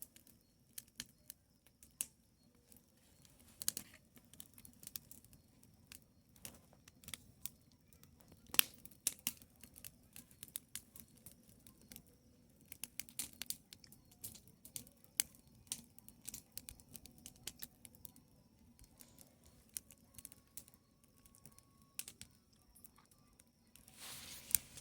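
Wood bonfire crackling: irregular sharp pops and snaps from the burning logs, with one louder pop about a third of the way through.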